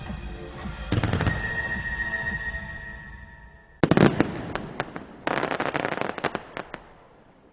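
Fireworks going off over a musical soundtrack: a loud bang about a second in, then two volleys of sharp bangs and crackling around four and five seconds in. The sound fades away near the end.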